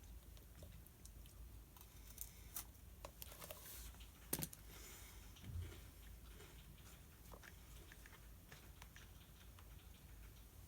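Quiet desk study sounds: scattered faint clicks and paper rustles from pen and paper handling, with one sharper click a little over four seconds in and a soft thump shortly after.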